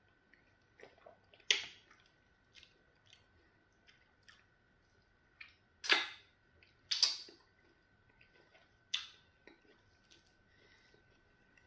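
Close-miked eating sounds of a person eating pounded yam fufu and okra soup by hand: wet chewing with scattered sharp lip smacks. The loudest smacks come about a second and a half, six and seven seconds in.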